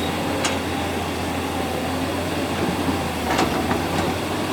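A vehicle engine running steadily, with a few sharp knocks: one about half a second in and three close together in the last second or so.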